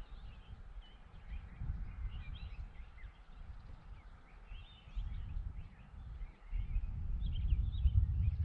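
Small birds chirping and twittering, high and scattered, over a low gusty rumble that gets louder about two-thirds of the way through.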